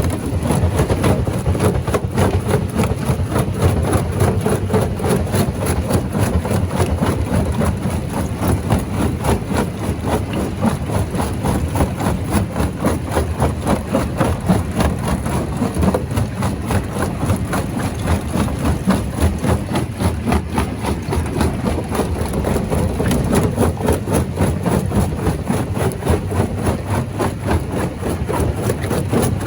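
Rock crusher machine running steadily, a heavy mechanical rumble with a fast, dense rattle of knocks throughout.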